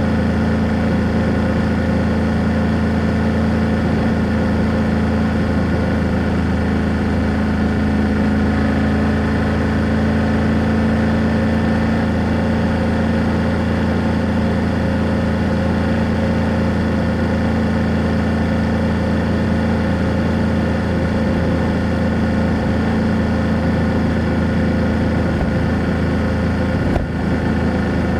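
BMW F800GS parallel-twin motorcycle engine and exhaust running steadily under way, holding an even pitch, with a brief dip about a second before the end.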